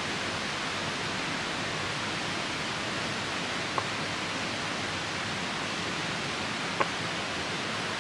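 Steady rushing of river water, with a campfire's burning wood popping twice, about four and seven seconds in.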